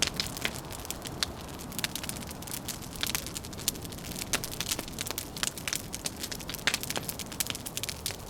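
Wood fire crackling, with many irregular sharp pops and snaps over a steady low rumbling hiss.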